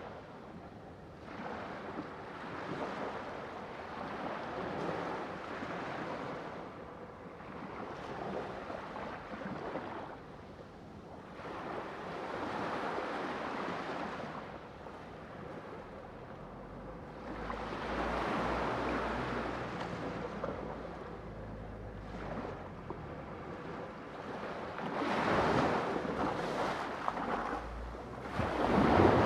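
Sea surf washing in and drawing back in slow swells a few seconds apart, the biggest wave near the end.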